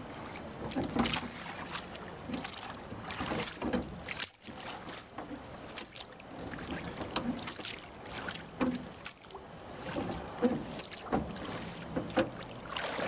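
Small boat moving through floodwater: irregular water splashes and hollow knocks about every second or two, with no engine heard.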